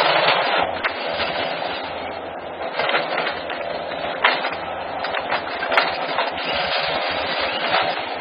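Forestry machine working through trees: a steady mechanical din with repeated sharp cracks of wood snapping and splintering.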